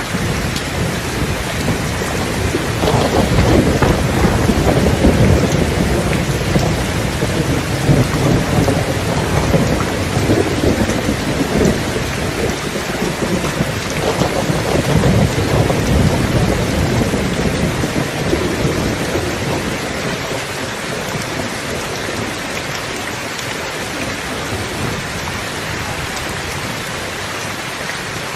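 Steady rain falling, with a long roll of thunder rumbling from about three seconds in and dying away after about twenty seconds.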